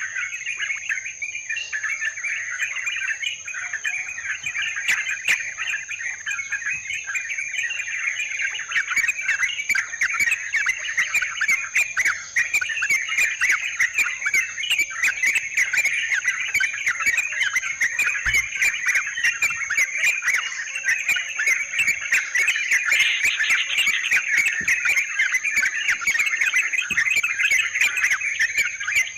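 Yellow-vented bulbuls (trucukan) chattering and singing continuously in a dense, overlapping chorus, busier from about a third of the way in. A steady high-pitched whine runs underneath.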